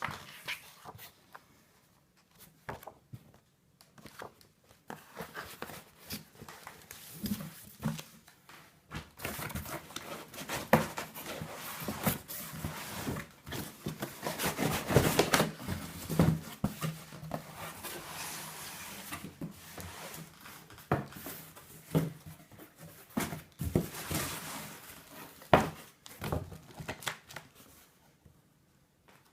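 Unpacking by hand: packaging crinkling and rustling, with many sharp clicks and knocks of plastic parts being handled. Busiest in the middle, then sparser near the end.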